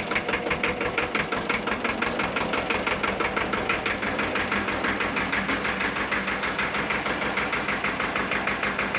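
Deutz D30 tractor's two-cylinder air-cooled 812 diesel engine running steadily, with a rapid, even diesel knock.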